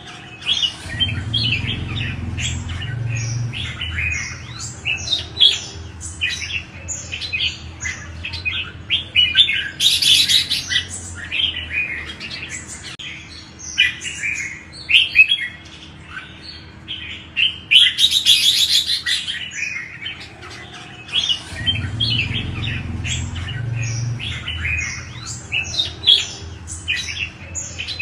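Red-whiskered bulbuls singing: a dense, unbroken run of quick chirping phrases, with two harsher, buzzier outbursts about a third and two-thirds of the way through. A low hum sits underneath near the start and again near the end.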